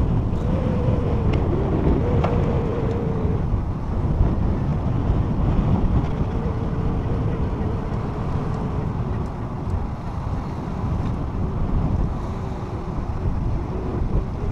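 Wind buffeting an outdoor camera microphone: a steady, loud, low rumble, with a faint wavering hum behind it.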